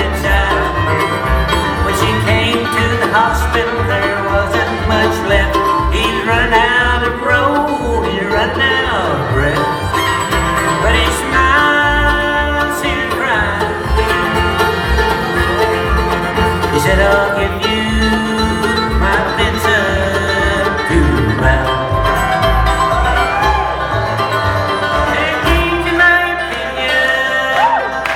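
Bluegrass band playing live: banjo, fiddle, mandolin, acoustic guitar and upright bass, with quick picked notes over a steady bass beat.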